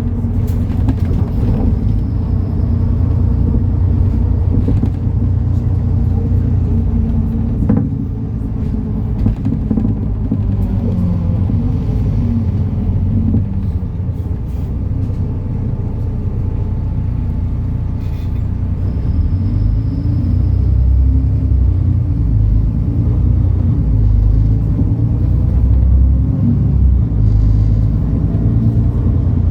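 MAN Lion's City NL293 diesel city bus driving, with a steady low engine and drivetrain rumble. The engine note rises and falls in pitch about ten to fourteen seconds in as the bus changes speed.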